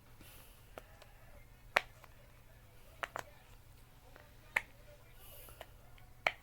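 Five sharp clicks or taps spaced a second or so apart, two of them close together near the middle, over a faint hiss.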